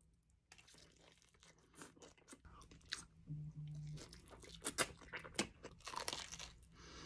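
Close-miked bites and chewing of a deep-dish pizza slice, its crisp crust crunching in a quick run of sharp crackles that is loudest about five seconds in.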